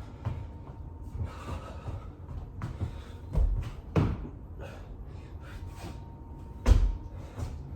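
Dull thuds and knocks of a person doing burpees on a floor, a few seconds apart; the heaviest come about halfway through and near the end.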